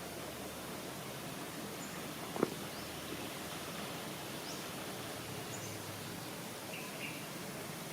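Steady outdoor background hiss, with one sharp click about two and a half seconds in and a few faint, short high chirps.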